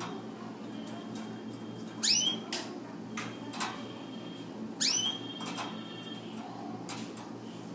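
Canary calling: a short rising whistle, given twice about three seconds apart, with a few faint clicks in between, over a steady low hum.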